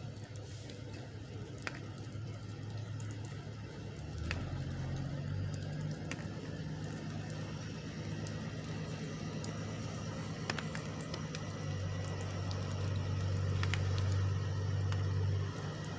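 Semi-truck's diesel engine running with a steady low drone that swells near the end and then drops back abruptly, with a few faint clicks.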